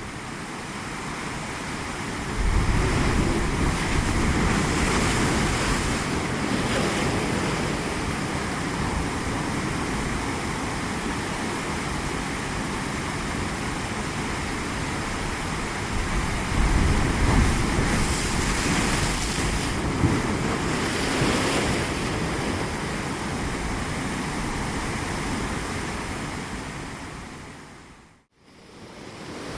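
Ocean surf: waves breaking and washing, swelling louder twice, with wind buffeting the microphone; the sound fades out shortly before the end.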